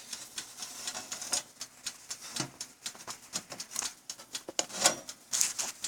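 Light, irregular clicks and taps of a small baking tray being set into a toaster oven.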